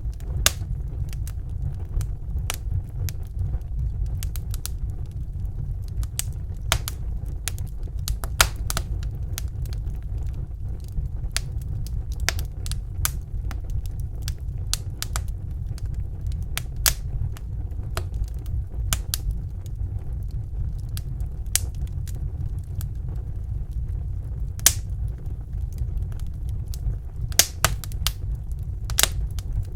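Wood fire in a fireplace crackling, with irregular sharp pops and snaps, a few louder ones near the end, over a steady low rumble.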